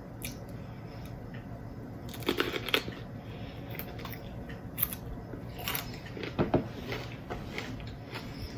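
Chewing on a jalapeño pepper stuffed with cream cheese and Takis rolled tortilla chips, with irregular crunches.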